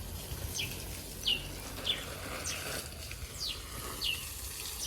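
A bird calling over and over with short, high chirps that slide down in pitch, roughly one every half second, against a faint outdoor background.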